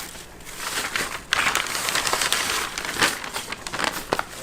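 Cigar packaging being handled: crinkling and rustling, loudest in the middle, with a few sharp clicks and taps as the boxes and wrapped cigars are moved.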